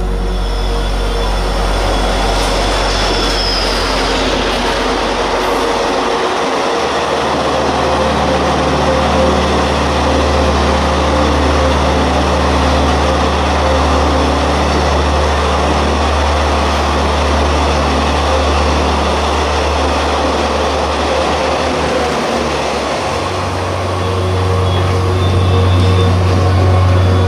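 Locomotive-hauled passenger train running through a station at speed: a steady rumble of wheels on rails under a low engine drone that shifts in pitch as the locomotive and coaches pass, with a faint high wheel squeal a few seconds in.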